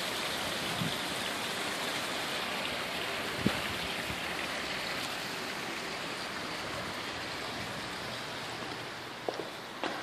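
Steady splashing of the poolside water features, a continuous rush of falling water, with a single sharp click about three and a half seconds in and two faint knocks near the end.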